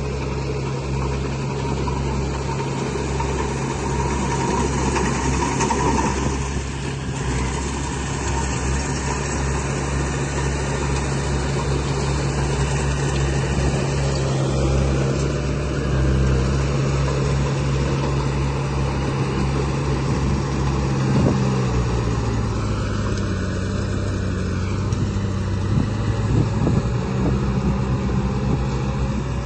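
Radio-controlled construction vehicle model running with a steady engine-like drone, settling to a lower pitch about two-thirds of the way through.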